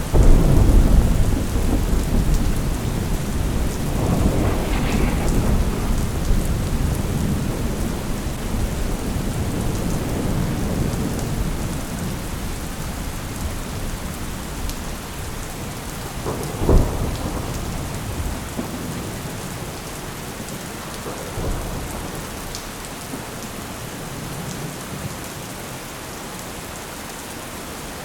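Thunderstorm: steady rain with rolling thunder. A heavy rumble at the start dies away over several seconds, another rolls in about four seconds in, and a sharper, short thunderclap comes about two-thirds of the way through.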